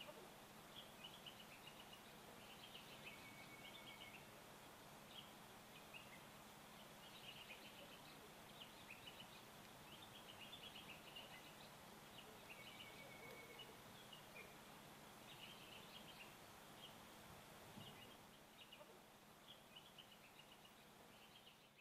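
Faint bird calls, short chirps recurring every second or so, over a low background hiss.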